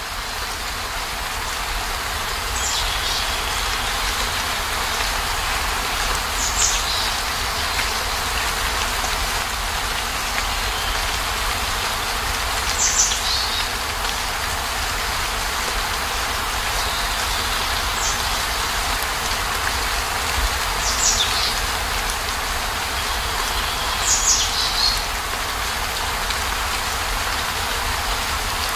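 Heavy rain falling steadily: a dense, even hiss. Every few seconds a brief high chirp that falls in pitch rises above it, about six times in all.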